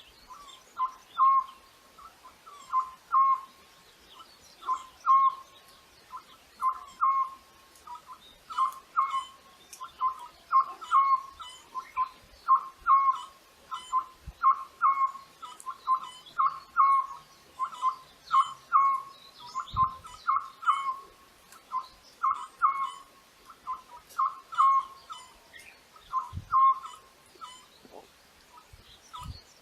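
A bird repeating a short, clear call of one or two quick notes, about once a second, with faint chirps of other small birds behind it.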